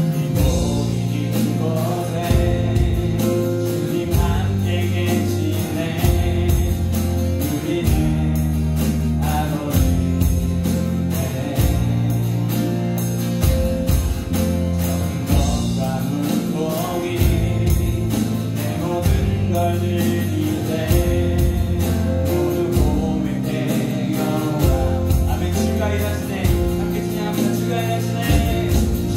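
Live worship band playing a steady, loud passage of a contemporary praise song: bass guitar holding long notes that change every second or two, electronic drums keeping a regular beat, with keyboard and acoustic guitar.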